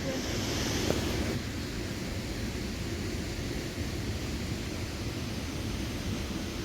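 Steady low rushing noise, with a brighter hiss over it for the first second or so.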